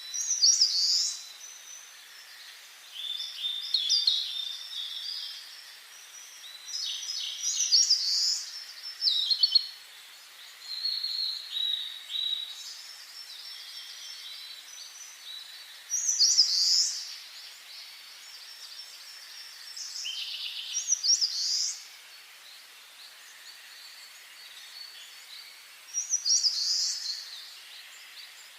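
Songbird singing short, high, twittering phrases with quick pitch sweeps, one phrase every few seconds, over a faint steady hiss.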